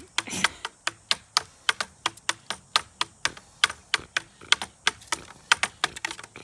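A rapid, fairly even run of sharp clicks or snaps, about five or six a second.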